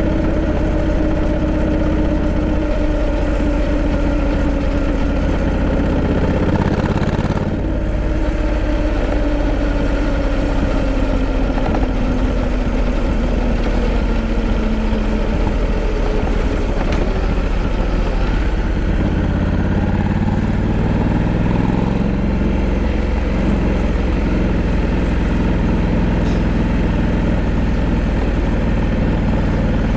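Honda Africa Twin 1100's parallel-twin engine running under way. Its note slowly falls through the first half, with a brief dip about seven seconds in like a gear change, then climbs again past the two-thirds mark.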